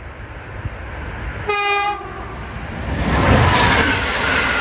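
A passenger train sounds one short horn blast about a second and a half in, then arrives and runs through the level crossing, with loud wheel-on-rail noise from about three seconds in.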